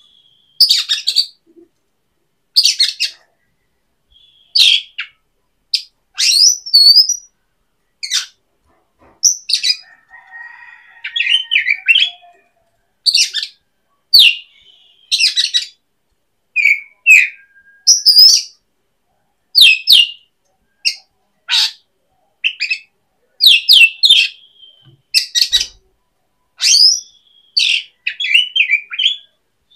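A bird chirping, loud and close: short, sharp high calls roughly every second, some coming in quick runs of two or three.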